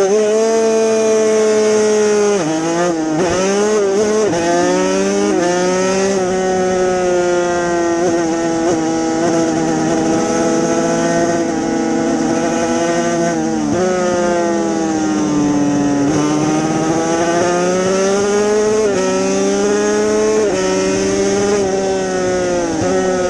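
Yamaha TZ250 two-stroke racing motorcycle engine at high revs, pitch climbing and snapping down at quick gear changes about three seconds in. After that the revs sweep down and back up in long arcs as the bike is ridden hard.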